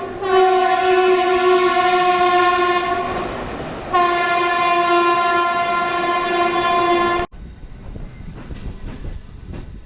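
Train horn sounding two long, steady blasts, the second cutting off sharply about seven seconds in. Then the rumble and clatter of the train running on the rails.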